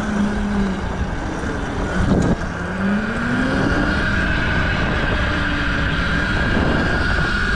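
Mini bike's small engine running under way, its pitch dipping and rising with the throttle over a rough rumble of riding noise, with a steady high whine on top. A short loud knock comes about two seconds in.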